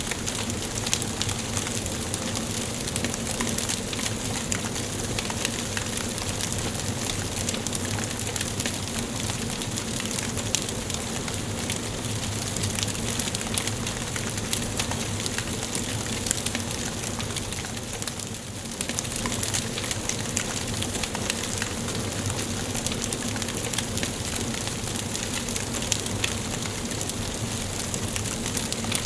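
Wood fire burning in a fireplace: a steady hiss with frequent small crackles and pops, dipping briefly about two-thirds of the way through.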